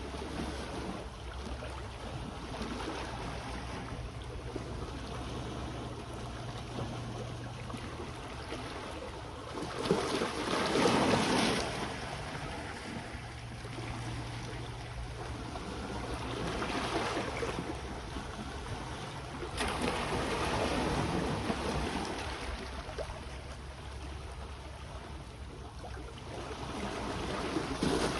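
Sea waves washing onto the shore, swelling and falling back every few seconds, the loudest surge about ten seconds in.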